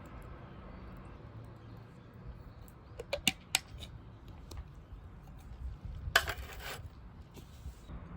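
Metal cooking gear being handled: a few sharp clinks about three seconds in, then a short scraping rustle about six seconds in, over a low steady background.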